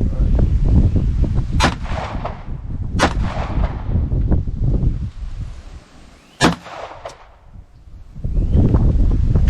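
Three single shots from a 9mm SIG Sauer MPX, the first two about a second and a half apart and the third some three seconds later, over wind rumbling on the microphone.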